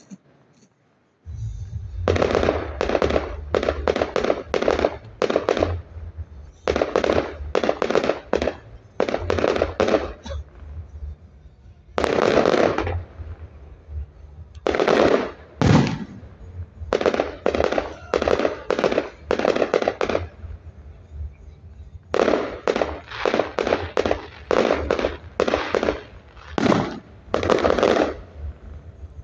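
Fireworks display: rapid volleys of bangs from bursting shells, coming in tight clusters of several reports each, with a steady low rumble underneath.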